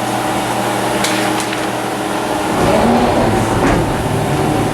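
Steady mechanical hum of a powered-up Fadal vertical machining center idling, with a few sharp clicks. A louder low rumble comes in about halfway through.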